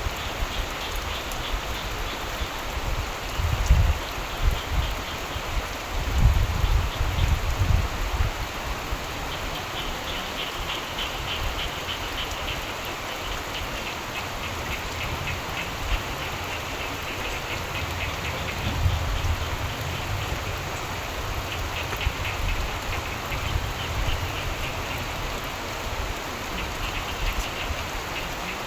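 Steady rain falling, with frogs calling in fast pulsed trills that come and go in several bouts. Low rumbles come through several times in the first eight seconds and again around twenty seconds in.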